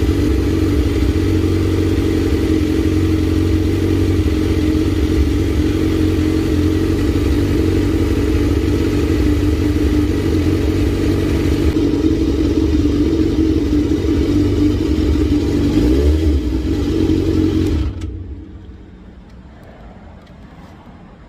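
Suzuki GSX-R1000's inline-four engine running steadily at low revs, with a brief rise in pitch about sixteen seconds in. The engine is then switched off about eighteen seconds in, leaving a faint hum.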